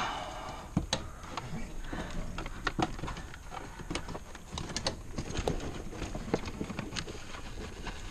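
Irregular clicks and knocks of hands working on a car's interior plastic trim and wiring, some strokes sharper than others, over a low rumble.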